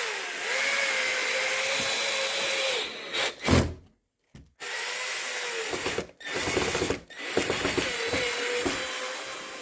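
Cordless drill/driver motor whining as it drives Phillips screws, run in several stretches: a first run of about three seconds, a short loud burst, then three more runs with brief pauses between.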